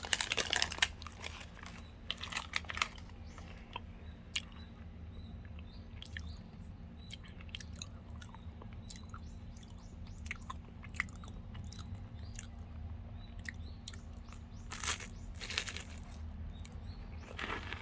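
Close-miked chewing of a Lotte Crunky crisped chocolate bar: loud crunching in the first couple of seconds, then quieter chewing with small scattered crackles, and a few louder crunches again near the end.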